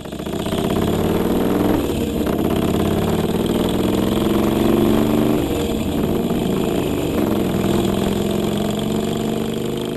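Motorcycle engine running steadily, its pitch shifting slightly a couple of times.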